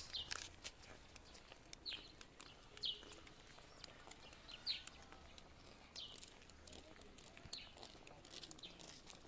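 Birds giving short, high, falling chirps every second or so, over faint footsteps on a gravel road.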